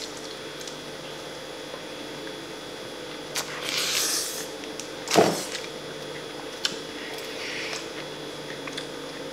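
Eating sounds from someone chewing a burger close to the microphone: scattered soft clicks and brief chewing noises, with one louder smack about five seconds in, over a faint steady hum.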